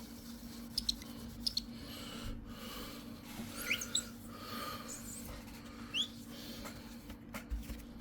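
Tissue squeaking in short, quick, rising chirps as it is rubbed over a hard laptop part during cleaning with isopropyl alcohol, several times over a low steady hum.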